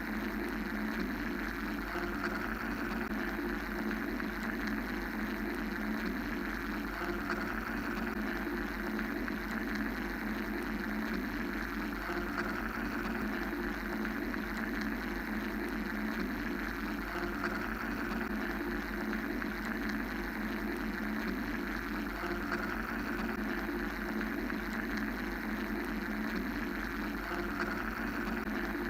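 Steady mechanical white-noise drone: a continuous machine-like rumble and hiss at constant loudness, its upper hiss swelling and easing gently about every five seconds.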